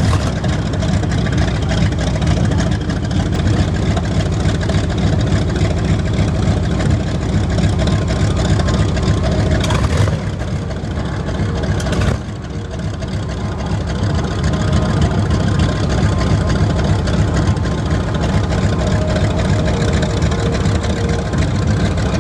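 Hawker Hurricane's Rolls-Royce Merlin V12 aero engine running, loud and steady. Around the middle there are two short sharp sounds, each followed by a drop in level, and the engine then slowly grows louder again.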